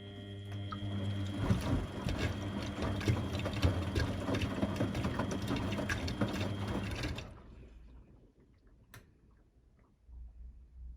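Laundry machine's drum motor turning the drum, a steady hum and high whine with the load clattering and rattling inside. It starts abruptly and stops about seven seconds in, a pause in the drum's rotation cycle.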